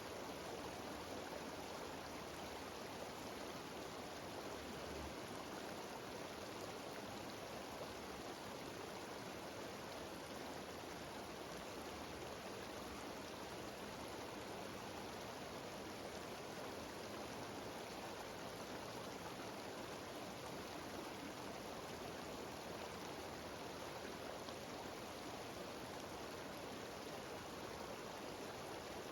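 Mountain stream cascading down a waterfall, a steady rush of falling water.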